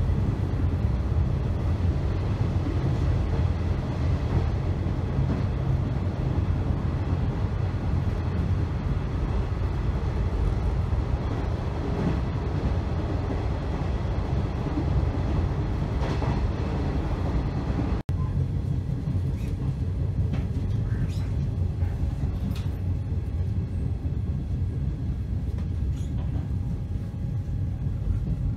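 Inside a JNR 455-series express-type electric train car running along the line: a steady low rumble of wheels and running gear on the track. About two-thirds of the way through the sound breaks off abruptly, then resumes a little quieter with a few faint clicks.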